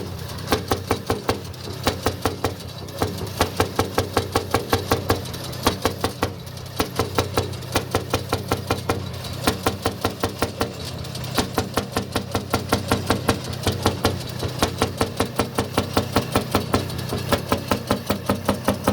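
Jelbart tractor's single-cylinder two-stroke hot-bulb engine running, each firing a sharp bang at about five beats a second. The beats come in runs with short, uneven gaps.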